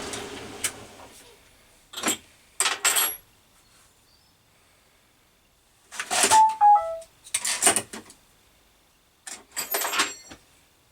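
A machine's motor winds down and stops at the start. Then metal tools and small metal parts clink and clatter in several short bursts as they are handled and set down; one burst has a few short ringing pings that step down in pitch.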